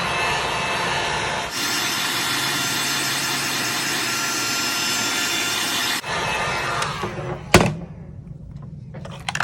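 Hot-air blower running steadily, heating the plastic back of a phone to soften its adhesive; the air noise grows brighter about a second and a half in and cuts off about six seconds in. A single sharp click follows a moment later, with a few small clicks near the end.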